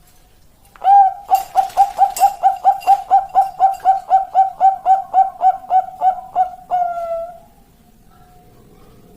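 Zebra dove (perkutut) singing a long song: a quick run of about two dozen short coos, roughly five a second, ending in a longer drawn-out note about seven seconds in.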